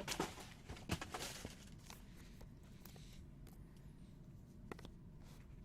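Faint handling of trading cards and their foil pack wrappers: soft rustling and a few short clicks in the first second or so, then only occasional faint ticks.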